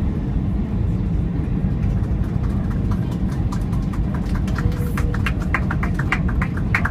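Steady low cabin rumble of an Airbus A320 taxiing after landing. From a few seconds in, a quick, uneven run of short light clicks rises above it, thickest near the end.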